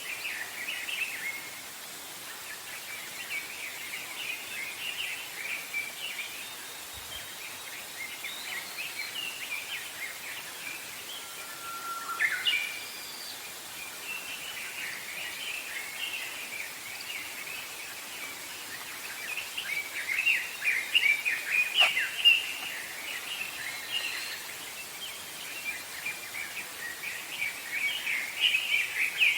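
Several small birds chirping and twittering continuously over a steady background hiss, with one whistled note that rises sharply about twelve seconds in and a brief sharp click about two-thirds of the way through.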